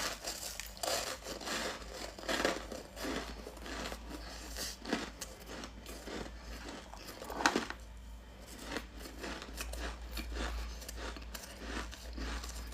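Frozen frost ice crunching in irregular short strokes, one sharper crack about seven and a half seconds in, over a low steady hum.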